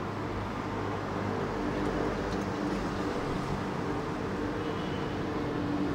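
The 2.0-litre four-cylinder engine of a 2018 Nissan X-Trail idling steadily just after start-up, heard from the driver's seat inside the cabin.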